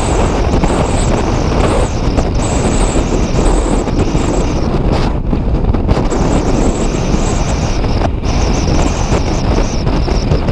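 Strong, gusty wind buffeting the microphone: a loud, continuous low rumble that swells and dips with the gusts.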